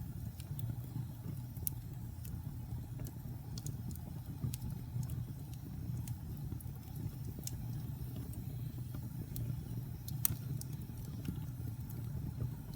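Wood fire in a fireplace crackling and popping, with sharp irregular pops over a low steady rumble of the flames; one louder pop comes about ten seconds in.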